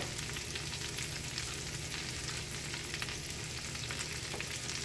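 Shredded cabbage frying in melted butter and canola oil in a hot cast-iron skillet: a steady sizzle with fine, faint crackles.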